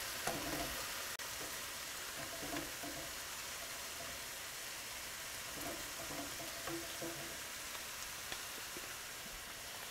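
Sliced mushrooms, chopped onions and garlic sizzling in oil in a frying pan, a steady, gentle hiss as the onions soften.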